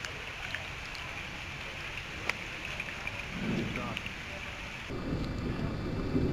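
Steady rain falling, with scattered sharp drop ticks. About five seconds in, a louder low rushing comes in abruptly, wind buffeting the microphone.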